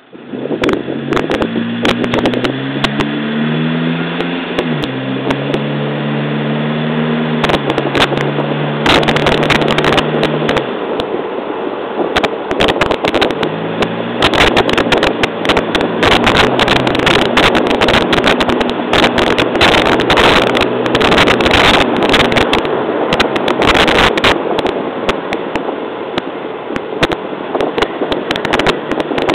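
Suzuki Jimny JB33's 1.3-litre four-cylinder engine pulling away and revving up through the gears, with a gear change about four seconds in, then driving on under steady road and wind noise. Frequent sharp crackles and knocks run through it, thickest from about nine seconds on.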